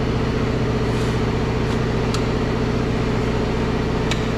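Steady low machine drone with a constant pitch, overlaid by a few light sharp clicks of plastic wiring connectors and trim pieces being unplugged and handled on a car door.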